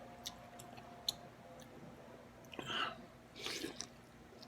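A person eating pho: faint mouth clicks from chewing, then two short slurps about two and a half and three and a half seconds in.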